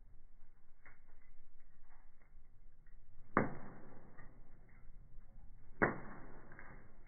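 Firewood burning in a fireplace, crackling with faint scattered ticks and two loud, sharp pops, one about halfway through and another near the end.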